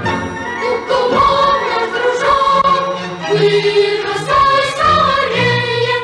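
Choral music: voices singing held, slowly changing notes.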